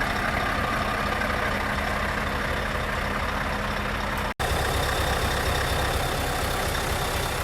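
Scania R770's 16.4-litre V8 diesel engine running steadily at low revs, with one very brief break in the sound about four seconds in.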